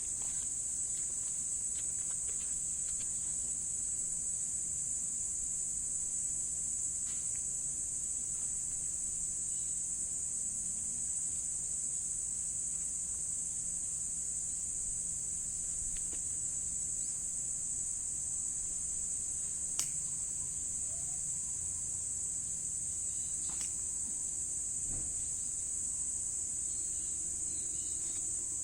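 Insects singing in one steady, unbroken high-pitched tone, with a single small click about twenty seconds in.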